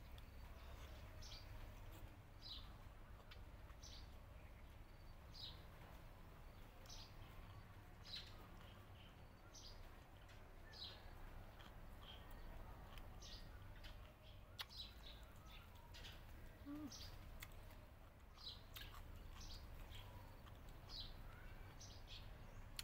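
Faint bird chirping: short high chirps repeated about once a second, over a low rumble, with a few soft clicks.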